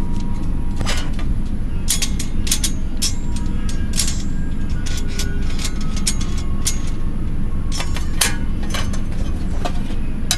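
Repeated sharp clicks and clatter of a folding camp table's boards and grill grates being fitted onto its metal frame, over a steady low rumble.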